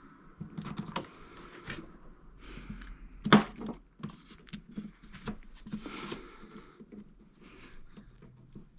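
Hands working with tools and parts at a workbench: scattered light clicks, taps and rustling, with one sharper knock about a third of the way in.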